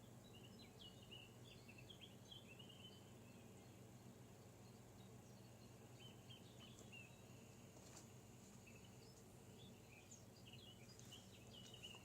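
Small birds chirping faintly in scattered runs of short high notes, over a steady low hum.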